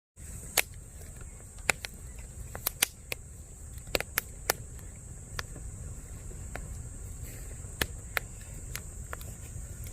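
Wood campfire crackling, with sharp irregular pops, over a steady high-pitched hum and a low rumble.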